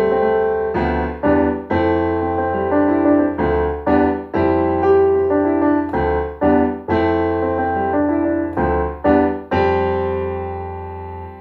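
Keyboard played with a piano sound: a slow run of chords, struck roughly once a second and left to ring, with a last chord held and fading near the end.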